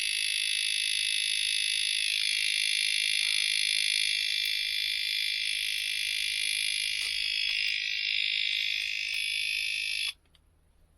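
Oxford alarmed disc lock's built-in siren sounding, a loud, steady high-pitched electronic alarm that cuts off suddenly near the end. The lock's alarm has been triggered and is very hard to disarm.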